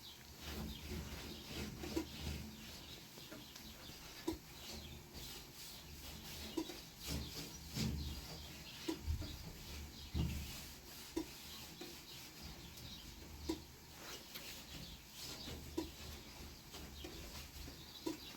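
Irregular light knocks and scraping from handwork, about one knock a second, with intermittent low rumbling.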